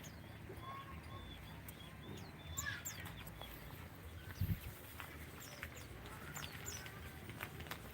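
Small cage birds chirping with many short, high calls, with scattered light clicks and one dull thump about four and a half seconds in.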